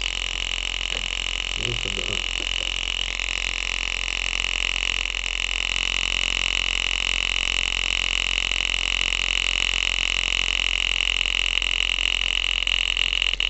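Homemade thermoacoustic engine (wire wool in a glass tube) running, its small piston buzzing steadily at a fast rate. The buzz shifts slightly about three seconds in.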